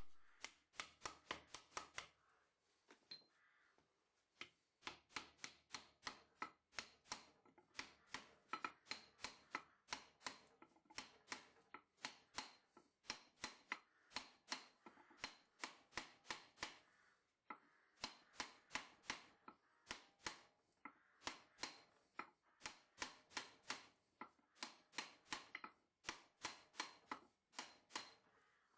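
Light hammer taps on a drift, driving the fitted bearing-and-sprocket piece home into the Cyclemaster rear wheel hub. The taps come quick and steady, about two or three a second, with a short pause about two seconds in.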